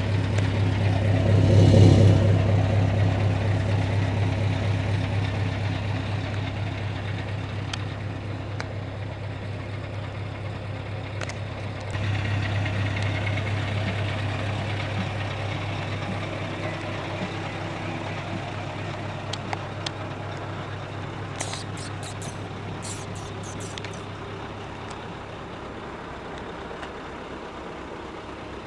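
Scania R730's V8 diesel engine running with a deep, steady note, loudest about two seconds in, rising again about twelve seconds in and then slowly fading. A few short clicks are heard later on.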